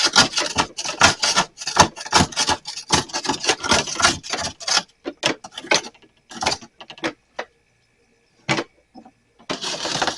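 Rapid rubbing and knocking as things in a just-defrosted mini fridge are handled: a dense run of strokes for about five seconds, then a few separate knocks and a short burst of rubbing near the end.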